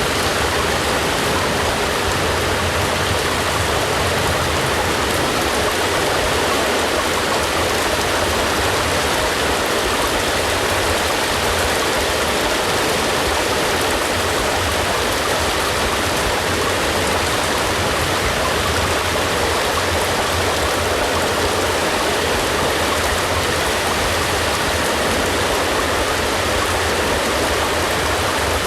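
Steady rain falling, an even, unbroken hiss with no thunder or other events.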